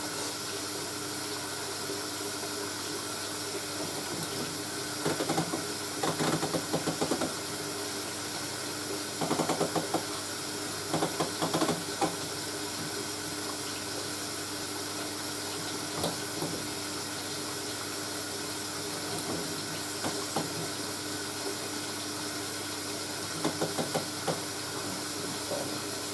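Washing machine filling with water for a rinse: a steady hiss of inflowing water with a faint hum. Louder irregular bursts come at intervals.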